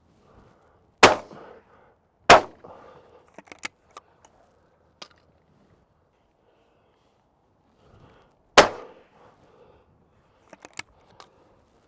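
Shotgun fired three times while shooting pigeons over decoys: two quick shots a little over a second apart, then a third about six seconds later, each ringing on briefly. Fainter sharp clicks follow the pair and the single shot.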